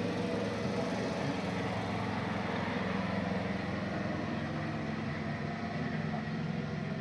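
A steady low engine hum, like a motor idling, over continuous background noise.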